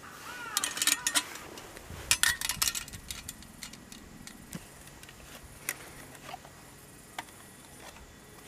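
Light metallic clinking and clattering in two short clusters during the first three seconds, then scattered single clicks: a compact metal mini fire stand and its charcoal being handled.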